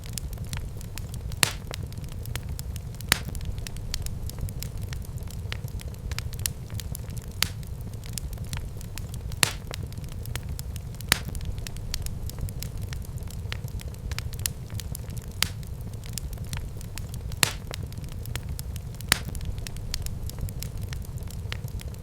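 Wood fire in a fireplace crackling: sharp pops and snaps every second or two over a steady low rumble.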